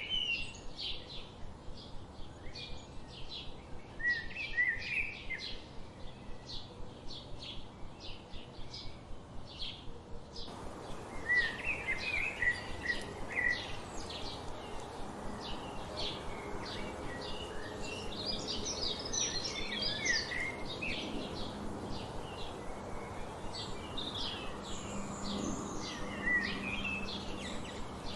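Wild songbirds singing and chipping: a fast run of short high chips, about two or three a second, with short warbled song phrases breaking in every few seconds. About ten seconds in, the background hiss grows louder.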